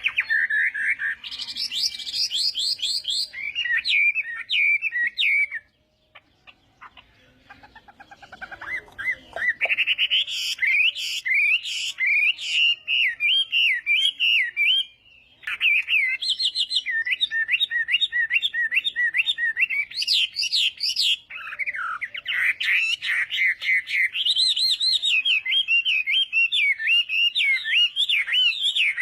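Chinese hwamei (hoạ mi) singing a loud, varied song of rapid whistled phrases and trills, falling quiet for a few seconds about six seconds in and then singing on almost without a break.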